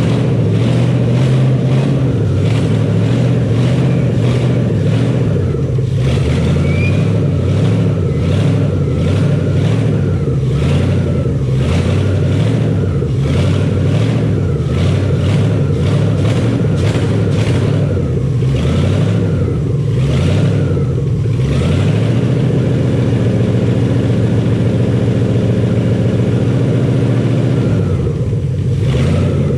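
Carbureted Ford 4.6 L 32-valve DOHC V8 running, blipped up and down in short repeated revs, about one a second, through the middle, then holding a steadier speed near the end.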